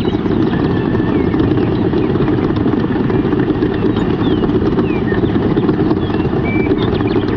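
A small motor running steadily and loudly, with a few short bird chirps over it.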